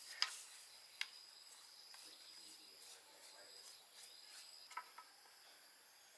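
Faint, steady, high-pitched insect chirring, with a few light sharp clicks: one just after the start, one a second in, and a quick pair near the end.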